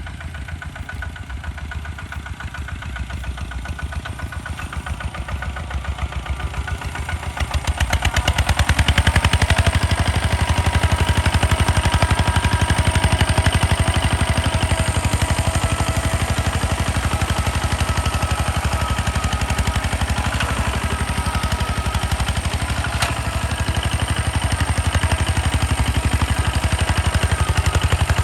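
Hand tractor engine chugging with fast, even firing beats. It grows steadily louder over the first eight seconds, then runs loud and steady.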